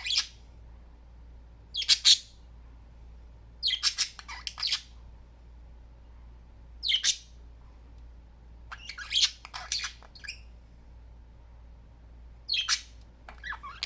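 Pet budgerigars giving short, harsh squawks and chatter in about six separate bursts, with quiet between them.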